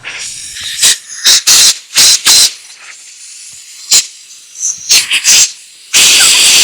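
Compressed air from a low-pressure blowgun hissing in a series of short blasts through the passages of a Holley 1904 carburetor body, blowing out loosened deposits and carburetor cleaner; the last blast near the end is longer.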